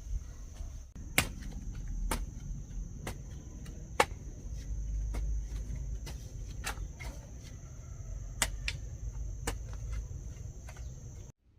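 Insects trilling steadily at a high pitch over a low rumble, with a dozen or so sharp, irregular clicks and knocks scattered through. The sound cuts off abruptly near the end.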